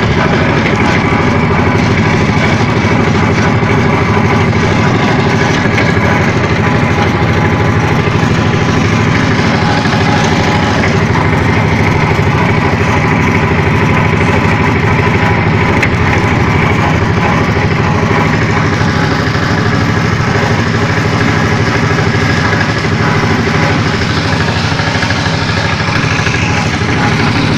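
An engine running steadily and loudly without a break, holding an even pitch.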